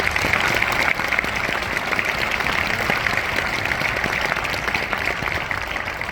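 Concert audience applauding, thinning out toward the end.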